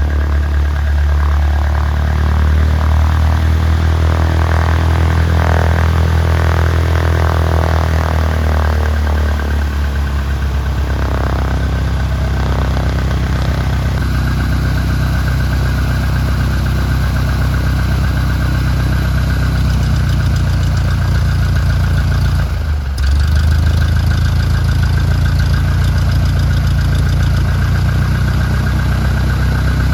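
Light aircraft's piston engine running steadily, heard from inside the cockpit. Its pitch shifts during the first ten seconds, then holds steady, and the sound drops out briefly about 23 seconds in.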